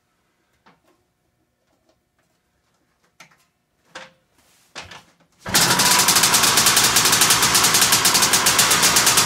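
1975 Aermacchi Harley-Davidson SX250's two-stroke single-cylinder engine starting: a few faint clicks and knocks, then it fires about five and a half seconds in and runs loudly with a fast, even pulsing beat.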